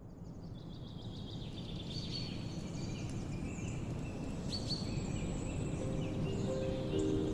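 Birds chirping and trilling over a steady low rumble of outdoor background noise, fading in at the start. Soft music begins to come in near the end.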